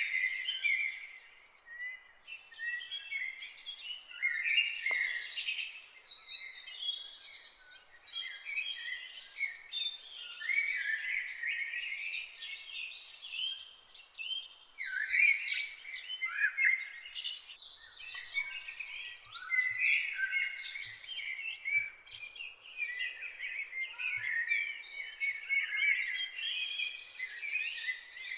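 Dawn chorus of several songbirds singing and chirping at once, many short overlapping phrases in a dense, continuous tangle.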